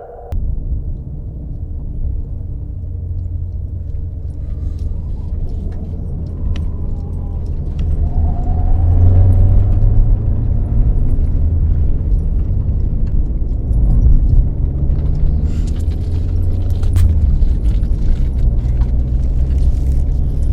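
Steady low rumble of a car driving, growing louder about eight seconds in, with faint light ticks over it.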